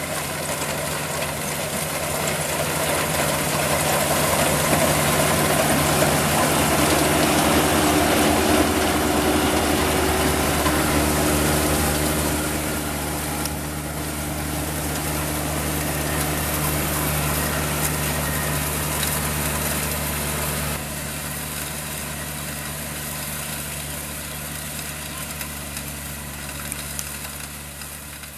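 Combine harvester engine running steadily with a low, even hum. Its running noise is loudest in the first half, then drops about twenty seconds in.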